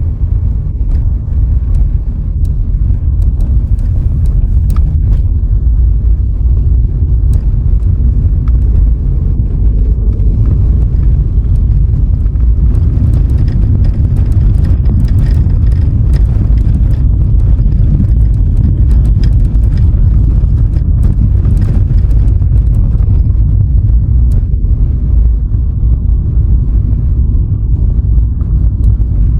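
Steady low rumble of a car being driven: engine, tyre and road noise, with scattered small clicks and knocks over it.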